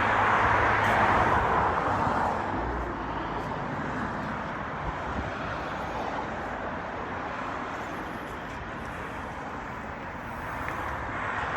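Road traffic noise: a vehicle goes by in the first couple of seconds, then a steady distant hum of traffic, swelling slightly near the end.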